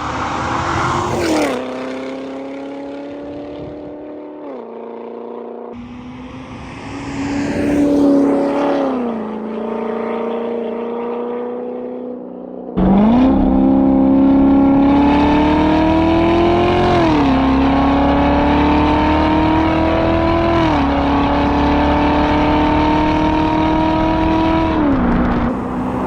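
Chevrolet Corvette C7 Z06's supercharged V8 through a Corsa Extreme exhaust, accelerating hard in several edited clips: the engine pitch climbs steadily and drops sharply at each upshift. About halfway through it jumps much louder and stays loud.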